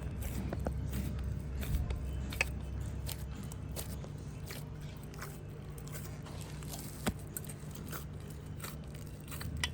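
A person eating: bites and chewing, with scattered sharp clicks at irregular intervals over a steady low hum.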